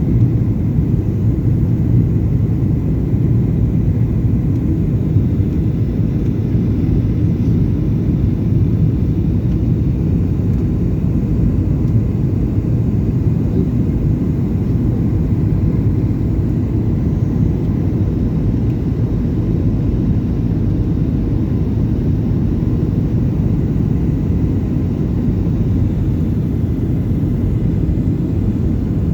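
Steady low drone inside the cabin of a Boeing 737-800 in flight: its CFM56 engines and the airflow over the fuselage, strongest in the bass, with no change in level.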